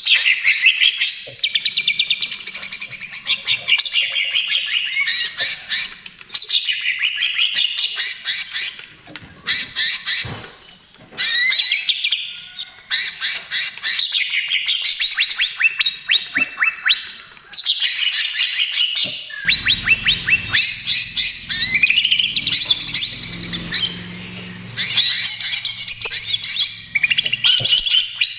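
Cucak ijo (green leafbird) singing loud, fast 'trotol' phrases: rapid trains of repeated chattering and whistled notes, broken by short pauses every few seconds.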